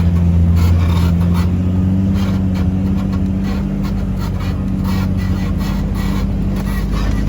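Off-road vehicle's engine running at low, steady revs while crawling a rocky trail, heard from the passenger seat, with its pitch lifting slightly about two seconds in. Light knocks and rattles come from the vehicle body and rocks.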